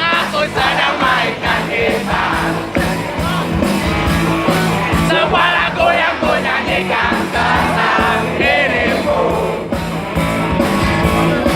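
Live rock band playing, loud and continuous, with singing voices and crowd shouts over the music.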